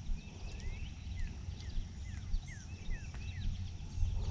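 Birds chirping: short calls that slide downward, about three a second, over a steady low rumble.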